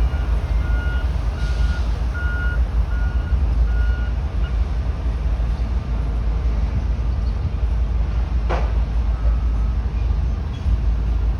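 A vehicle backup alarm beeping about six times, a little more than one beep a second, stopping about four seconds in, over a heavy steady low rumble. A brief sharp noise comes near the end.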